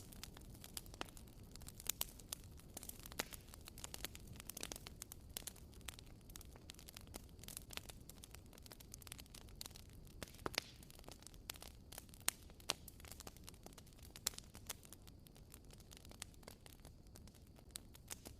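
Bonfire crackling: irregular sharp pops and snaps, a handful noticeably louder, over a steady low rumble from the fire.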